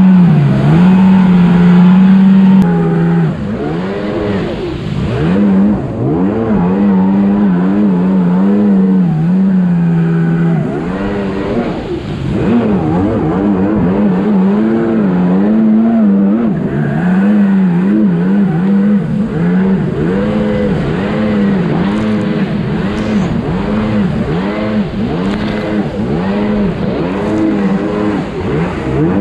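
Two-stroke jet ski engine running hard, its pitch swinging up and down over and over as the revs rise and fall. It is loudest for the first couple of seconds.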